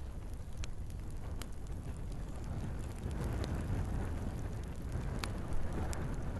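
Wood fire burning in a fireplace: a steady low rumble of flames with a few sharp, scattered crackles and pops. The hissing of the fire swells about halfway through.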